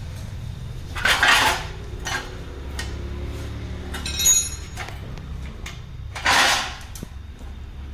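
Metal tools and parts clattering and clinking during workshop work, in three short bursts: one about a second in, a brief ringing clink just after four seconds, and another clatter near six and a half seconds. A steady low hum runs underneath.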